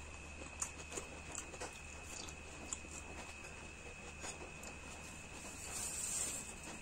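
Close-miked eating sounds: chewing with irregular wet mouth clicks and smacks, and a soft hiss that swells briefly near the end. A faint steady high-pitched tone runs underneath.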